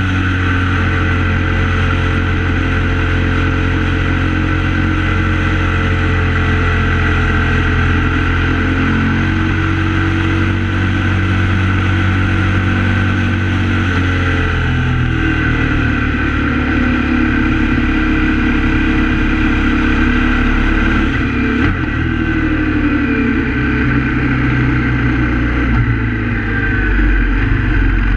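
KTM 950 Supermoto R's 942 cc V-twin engine running under way at cruising speed, with wind noise. Near the end the engine note shifts and drops as the bike slows down.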